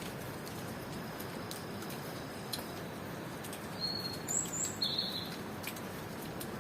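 Steady tropical rain with scattered drips, under a faint high cricket trill. A few short, bright bird chirps come in close together about four to five seconds in.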